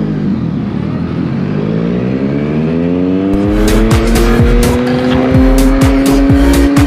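Motorcycle engine accelerating, its pitch rising and then holding steady at speed. About three and a half seconds in, electronic dance music with a steady kick-drum beat comes in over it.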